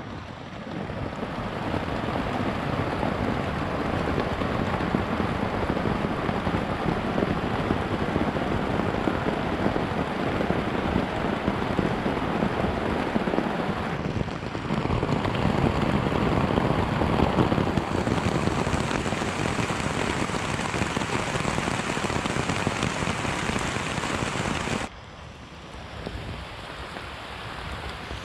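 Heavy rain falling on a tarp shelter, a dense steady patter. About three seconds before the end it drops abruptly to a lighter level.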